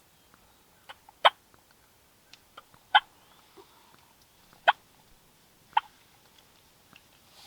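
Four short, sharp turkey clucks spaced a second or two apart, with a few fainter ticks between them.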